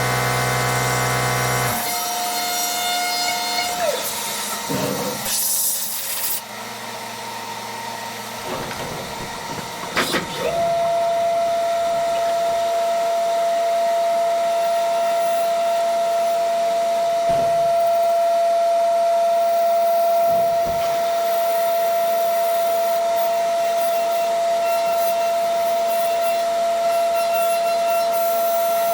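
CNC vertical mill machining a part: a steady high whine with hiss over it, breaking off for a few seconds with a sharp click about ten seconds in, then holding steady.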